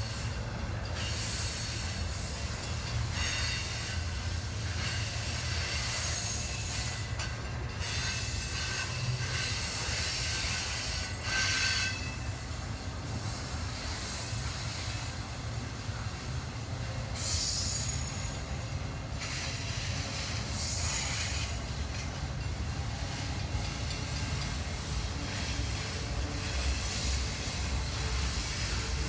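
Freight train rolling past with a steady low rumble, and its steel wheels squealing in high tones at times, most clearly about eleven seconds in and again around seventeen to nineteen seconds.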